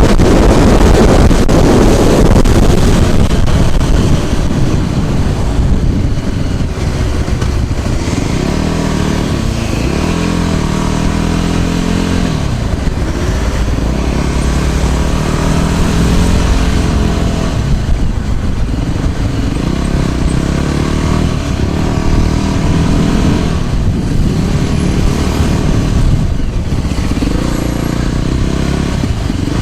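Motor scooter engine heard while riding, its pitch rising and falling again and again as it speeds up and eases off. Wind buffets the microphone loudly during the first few seconds.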